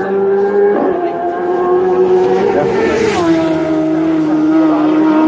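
Superbike racing motorcycle engine at high revs, passing at speed, its note dropping in pitch as it goes by about three seconds in.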